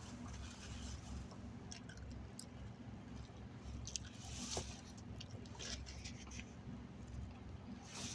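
A person chewing food close to the microphone, with irregular small clicks and soft mouth noises.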